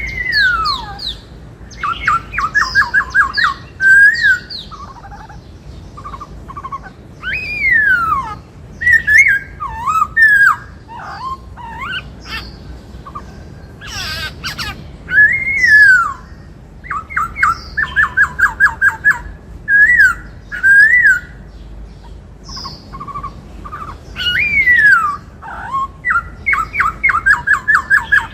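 Black-throated laughingthrush singing: loud whistled notes that slide up and down, alternating with fast trills of repeated notes, in phrases broken by short pauses.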